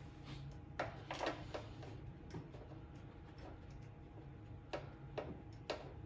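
Irregular sharp metallic clicks from a socket ratchet working a spark plug out of the mower's engine. They come in a quick cluster about a second in and again near the end.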